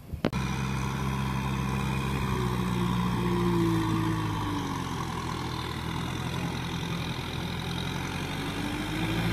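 Kubota M6040SU tractor's diesel engine running under load as the tractor works through deep rice-field mud. It starts abruptly after a click. Its pitch rises and falls between about three and five seconds in, then climbs again near the end.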